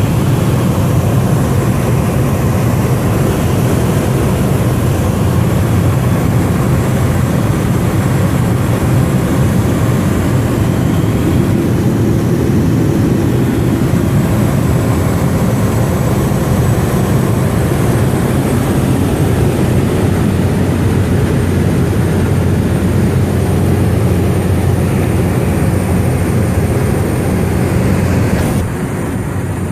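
Engine drone of a small propeller aircraft in flight, running steadily, with a little less power about a second before the end.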